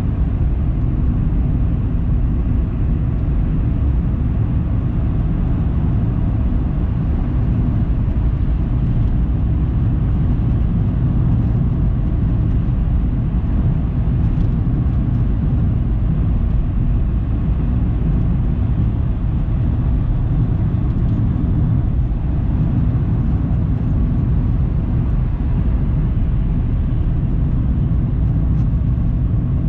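Steady low rumble of a car driving: road and engine noise, even in level throughout.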